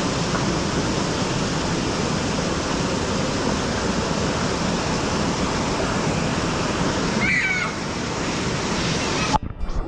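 Steady rushing of a stream's waterfall, a dense, even water noise that cuts off abruptly just before the end.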